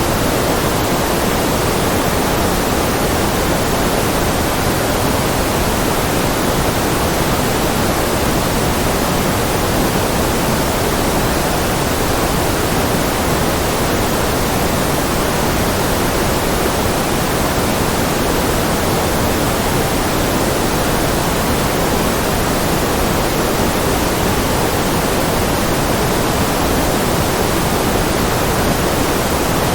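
Steady artificial white noise: an even, unchanging rushing hiss, fuller in the low-middle range than in the treble.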